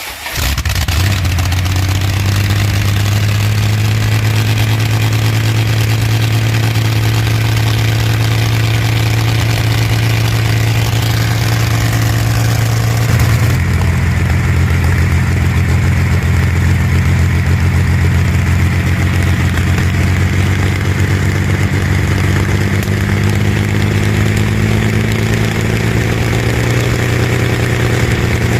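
Rolls-Royce Merlin V12 aero engine running loudly and steadily, its pitch creeping slowly upward. The sound changes abruptly about halfway through, then climbs slowly again.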